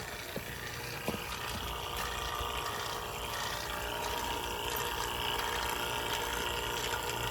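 HVAC vacuum pump running steadily on a mini-split line set, pulling a vacuum, with a low hum and a steady whine that grows slightly stronger about halfway through.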